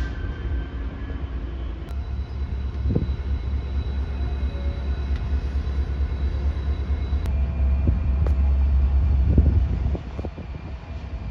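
A train rumbling past, a steady low rumble with scattered knocks and clanks that eases off about ten seconds in.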